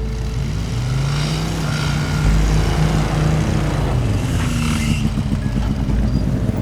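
A motor vehicle's engine running, its pitch rising and falling as it revs.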